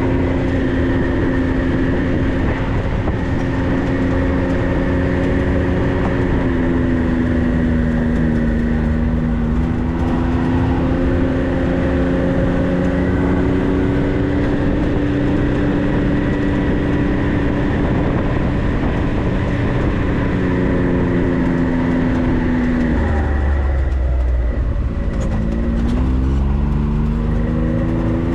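Off-road vehicle's engine running while driving, its pitch wavering with the throttle. About twenty-three seconds in it drops low, then rises steadily again as the vehicle speeds back up.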